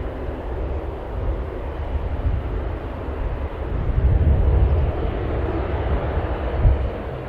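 Jet airliner engine noise, a steady rumble mixed with strong wind buffeting the microphone, growing louder about four seconds in.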